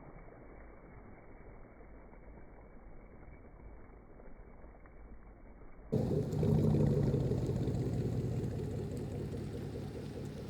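Faint, muffled low rumble, then about six seconds in a sudden switch to the loud exhaust note of a Chevy Silverado's 5.3-litre V8 running through straight-piped true duals with no mufflers, resonator or third cat. The drone slowly fades.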